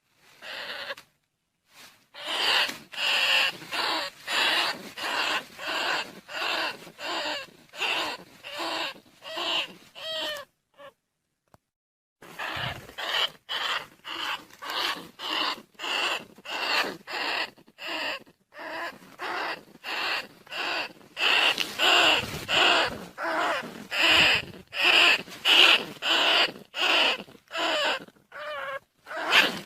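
Recorded calls of rice-field rats and bandicoot rats, played as a lure for trapping: a long run of short, high-pitched calls repeating just under twice a second, broken by a pause of about two seconds a third of the way in.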